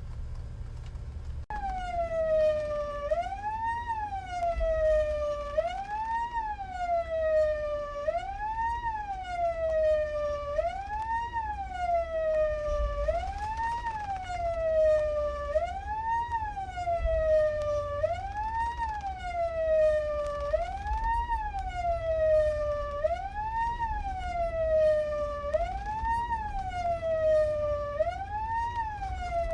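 Coast guard patrol boat's siren wailing, each cycle rising quickly and falling slowly, about every two and a half seconds, starting about a second and a half in. It is signalling a fishing boat to stop. A low rumble runs underneath.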